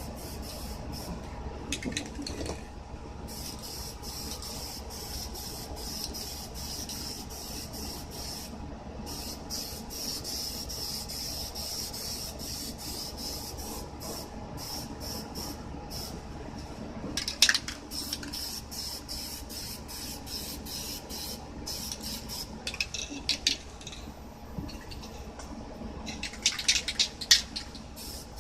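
Aerosol spray paint can hissing in long sprays with short breaks between them. Sharp rattling clicks come about two-thirds of the way through and again near the end.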